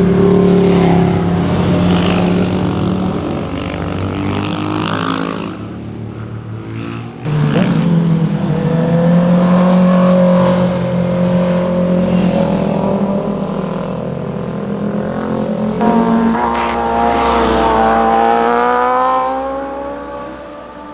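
Motorcycle engines passing one after another, revving up and down through the gears. Another bike comes in suddenly about a third of the way through, and near the end one accelerates hard with a rising pitch, then fades away.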